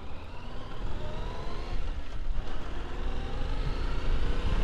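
Yamaha Ténéré 700's 689 cc parallel-twin engine pulling away, its pitch rising steadily and growing louder as it accelerates.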